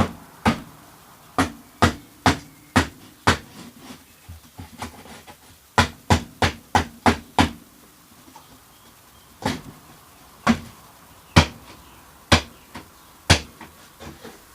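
Repeated sharp stabs of a cutting tool through a plastic container into the floor beneath: hard knocks in quick runs of several, with short pauses between the runs.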